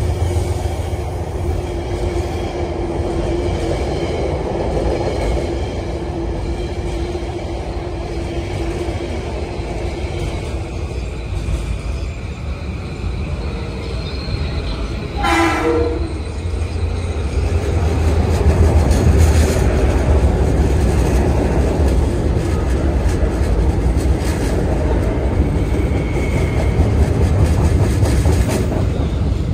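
Metro-North commuter trains passing on elevated track: a continuous rumble of wheels on rail with a steady hum through the first third, a single short horn blast about halfway through, then a louder rumble as electric multiple-unit cars pass close by.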